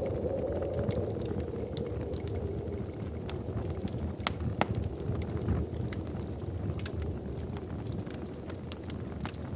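Wood fire crackling: irregular sharp pops and snaps over a low, steady rumble of burning, with one louder pop about halfway through.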